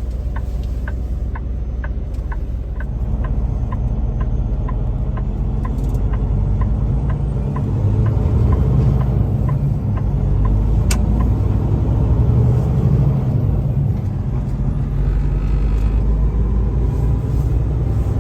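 Semi truck's diesel engine rumbling inside the cab while driving, growing louder about three seconds in and again near the middle. A dashboard turn-signal indicator ticks about twice a second through the first half, then fades out.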